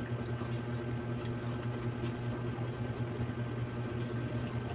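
A steady low machine hum, with a few faint soft clicks.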